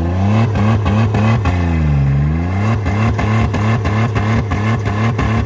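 Wrecked Ford Escape's engine running hard under load while trying to climb a dirt hill, its exhaust straight-piped with the muffler torn off. The pitch sags about two seconds in and climbs back, with a rapid, regular knocking over it.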